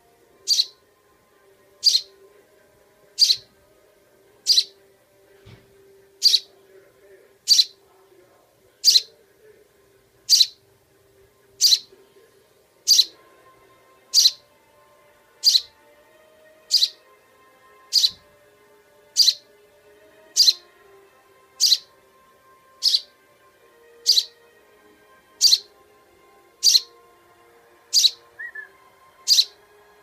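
Fledgling songbird giving a short, sharp cheep about every second and a quarter, evenly spaced and steady throughout, over a faint steady hum.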